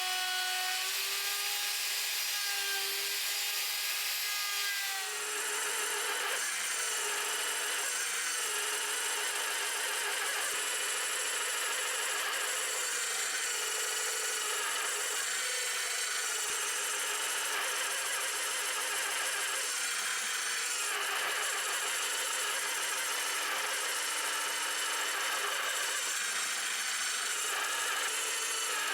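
Electric power tool working wood on a guitar build, its motor pitch wavering under load. About five seconds in it switches abruptly to a steady, dense grinding with a constant motor hum.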